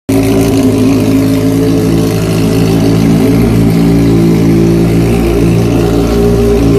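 CB 800 motorcycle engine idling steadily with a strong, loud exhaust rumble at an even, unchanging pitch.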